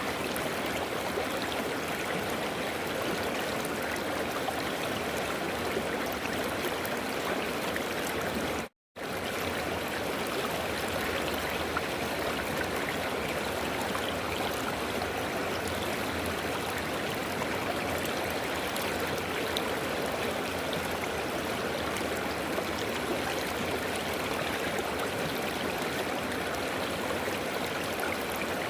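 River water flowing steadily, a continuous rushing and babbling. The sound drops out to silence for a split second about nine seconds in, then resumes.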